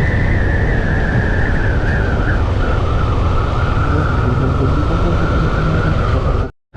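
Yamaha FZ V2 motorcycle's single-cylinder engine running on the move, with wind rushing over the microphone. A high whine slowly drops in pitch, and the sound cuts out abruptly for a moment near the end.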